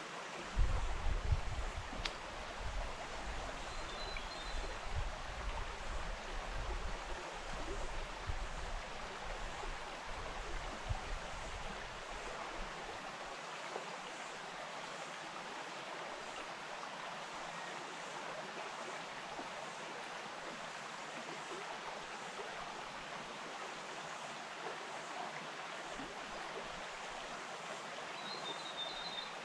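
Bush stream flowing, a steady rush of water, with low rumbling in the first dozen seconds.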